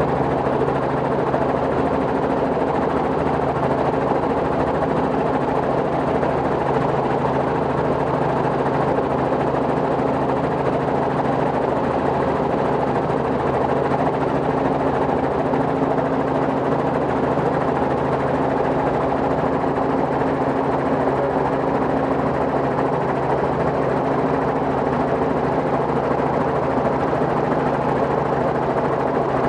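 Robinson R44 helicopter running steadily: its six-cylinder piston engine and rotors hold an even drone without rising or falling.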